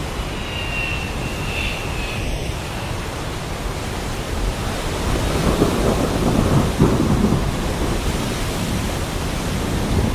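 Heavy rain falling steadily, with a roll of thunder swelling about five seconds in and crackling and rumbling for a couple of seconds.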